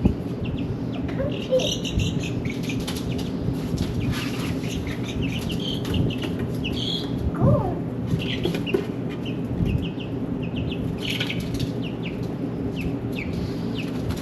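Chickens clucking and squawking, with brief flutters of wings, over a steady low hum.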